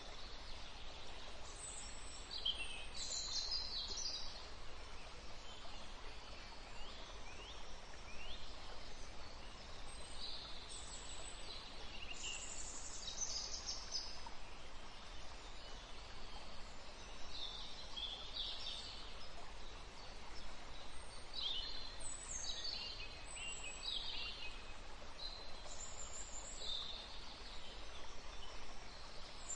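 Birds chirping now and then in short high calls, with a few clusters of chirps, over a steady background noise.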